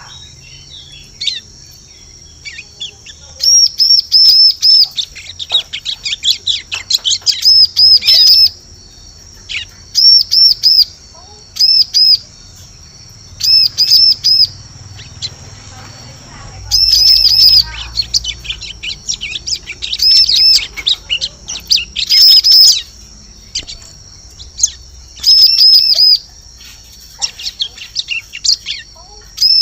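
Bar-winged prinia (ciblek) calling: quick runs of three to six sharp, high notes, separated by short pauses, repeated throughout. This is a lure-call recording used to draw wild prinias in.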